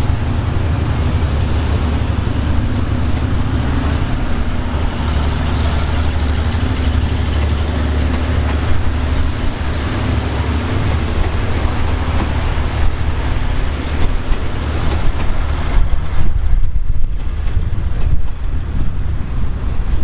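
Diesel-hauled express passenger train passing close by: a steady low diesel drone from its generator car fades over the first dozen seconds. Near the end the coaches' wheels clack over the rail joints as the cars roll past.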